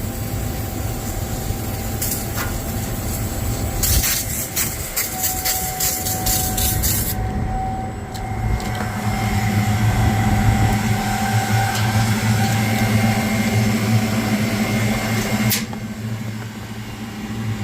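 Air-conditioning condensing unit running with a steady low hum and a faint higher whine, with a run of sharp clicks about four to seven seconds in. The technician suspects its fan motor is going out.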